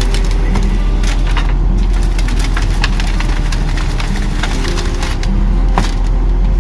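Volvo grapple truck's engine running steadily, driving the hydraulics, while brush and branches crack and snap in the grapple. There are many small snaps and one sharp crack near the end.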